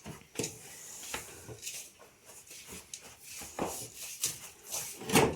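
Spoon stirring manioc flour through a pan of sautéed vegetables, a series of irregular scraping strokes against the pan, the loudest one near the end.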